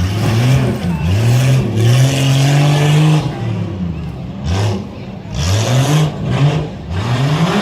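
Competition off-road truck's engine revving hard under throttle, its pitch climbing and held high for a couple of seconds, then dropping and surging again several times in quick succession as the throttle is worked.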